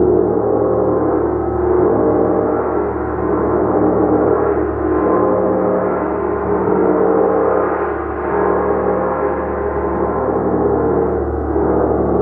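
A large gong played continuously, a dense sustained shimmering wash of many overlapping tones that swells gently every two or three seconds as it is kept rubbed or softly struck, with no distinct attacks.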